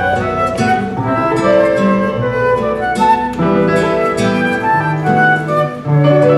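Live baroque chamber music: a flute melody over plucked-string accompaniment and a moving bass line.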